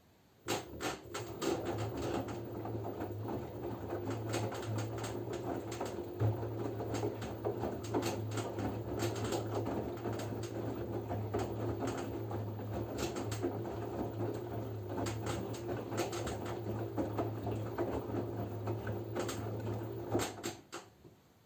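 LG F10B9LD front-loading washing machine turning its drum during the wash phase: a steady motor hum with the clatter and slosh of wet laundry tumbling. It starts about half a second in and stops about a second before the end, one tumbling stroke between the drum's pauses.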